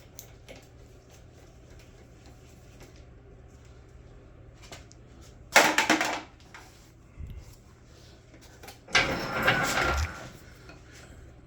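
Two loud metal clatters about three seconds apart, the second longer at about a second and ringing: loose oil-pan bolts landing and rattling among metal parts.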